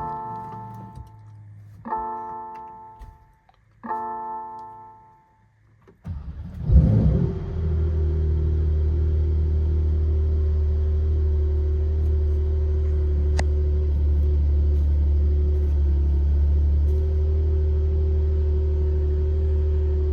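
Three dashboard warning chimes about two seconds apart, then the 2022 Porsche Turbo S engine cranks and fires on a cold start after about three weeks unused, flaring briefly before settling into a steady idle with a constant whine over the exhaust rumble.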